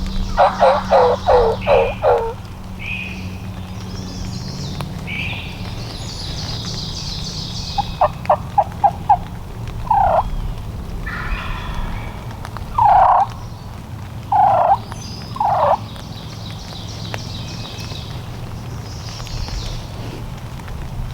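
Wild turkey yelping: a run of about six falling yelps at the start, a quick series of five short notes about eight seconds in, then single loud yelps spaced a second or two apart. Songbirds trill faintly in between, over a low steady rumble.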